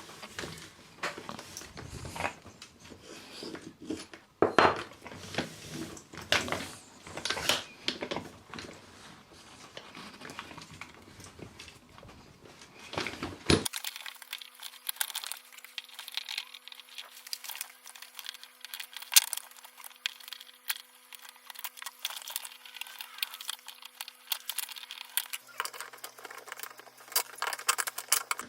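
Small metal tool and parts handling: irregular clicks, clinks and light rattles, with no motor running.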